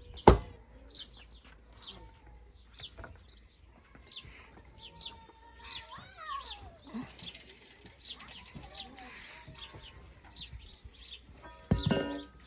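Small birds chirping repeatedly, with a single sharp knock just after the start and a brief loud burst near the end.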